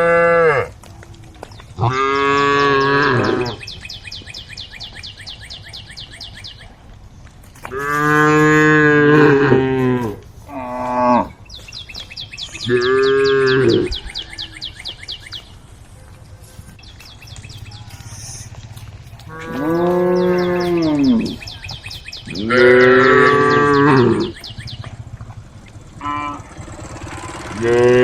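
Cows mooing again and again: about eight long, loud calls of a second or so each, spaced out with pauses. A fainter, high, rapidly pulsing buzz runs in several of the pauses.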